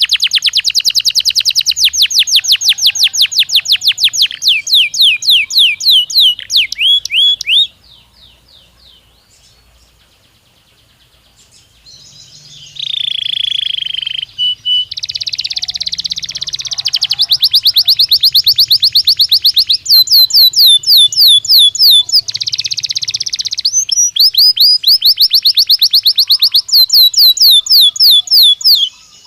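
Belgian canary singing in fast, rapid-fire trills. The song breaks off for a few seconds about a quarter of the way in, then resumes with harsher buzzing rolls and more quick trills.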